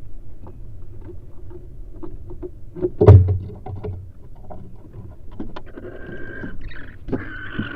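Barn owls scratching and knocking about inside a nest box, with one loud thump about three seconds in. From about six seconds a harsh, hissing barn owl call joins in.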